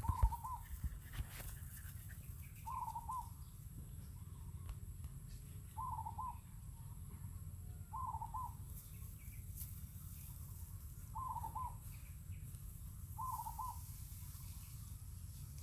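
A bird calling in the background: a short wavering call repeated six times, about every two and a half seconds, over a low steady hum. A sharp metal clank of the ladle against the steel pot right at the start.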